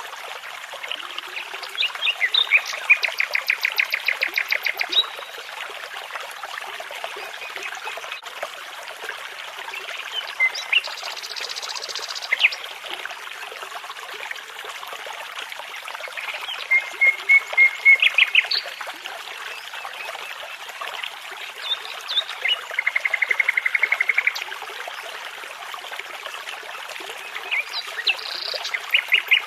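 Birds singing over a steadily running brook. The song comes in several bursts of rapid repeated notes, the water a constant rushing underneath.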